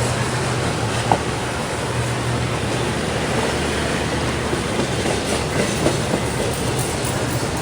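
Norfolk Southern freight train rolling steadily past, a continuous rail rumble with the wheels clacking over the track.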